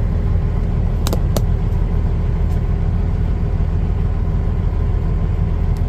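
Kenworth truck's diesel engine running steadily, a constant low hum heard from inside the truck. Two short clicks come about a second in.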